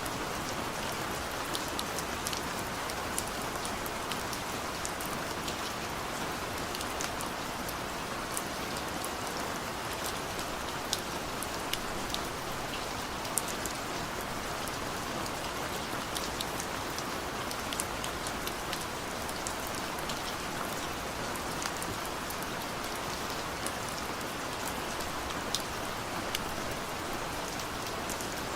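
Heavy rain falling steadily in a forest, a dense even hiss with scattered sharp drop ticks.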